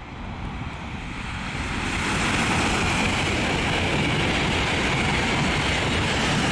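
LNER Class 800 Azuma high-speed train passing at speed: a rushing rumble of wheels and air that builds over the first two seconds, then holds loud and steady.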